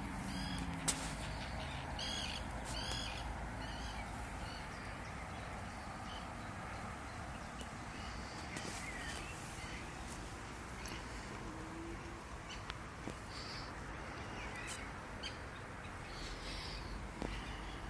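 Birds calling on and off over a steady outdoor background hiss, with a cluster of short calls a couple of seconds in and more scattered calls later.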